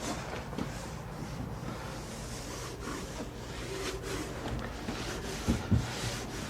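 A cloth rubbing a wood treatment onto wooden trim in short strokes, over a steady low hum. Two dull low knocks come near the end.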